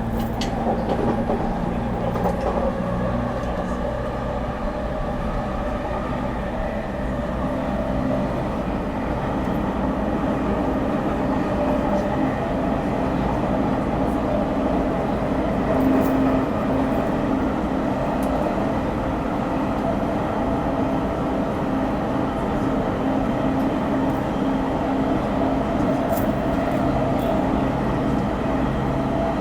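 JR East 209-1000 series electric train running at speed on the Chuo Rapid Line, heard from inside the car: a steady hum of the traction motors and wheels on rail, with a few faint clicks from the track.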